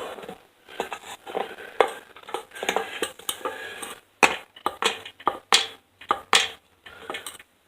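Irregular knocks and clatter of hard objects being handled, with several sharper knocks in the second half.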